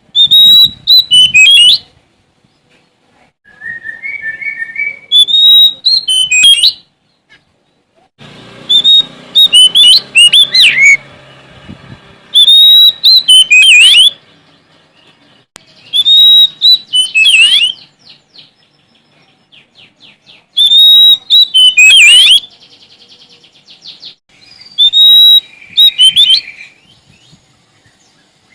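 Oriental magpie-robin (kacer) singing loudly in repeated song phrases, one every three to four seconds. Each phrase opens on a clear whistled note and breaks into quick up-and-down warbles, with softer chattering calls and a short rattle between phrases.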